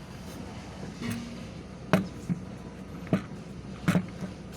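Four sharp knocks at uneven spacing over a steady low hum.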